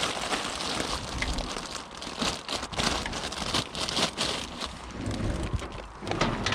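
Rustling and crackling with many small knocks as rubbish is handled and a discarded television is moved about at a bin.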